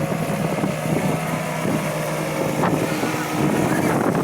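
Paramotor engine and propeller droning steadily, with wind buffeting the microphone.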